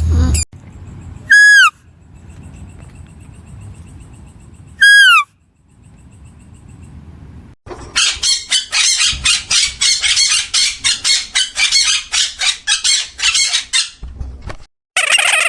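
Animal calls: two short, loud cries a few seconds apart, each rising and then falling in pitch, followed by about six seconds of rapid, harsh chattering calls. Another call begins near the end.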